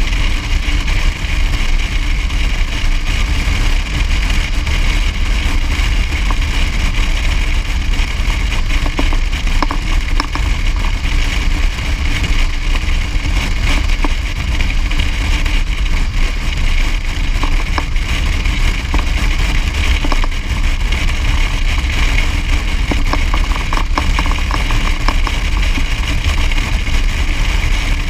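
A vehicle engine running steadily while travelling along the road, with an even drone of engine, road and wind noise.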